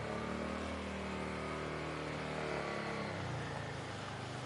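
A motor vehicle's engine running steadily, its pitch shifting slightly about three seconds in.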